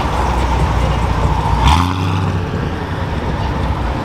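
Car engine running low and steady as a car rolls past, with a brief burst of louder noise a little under two seconds in.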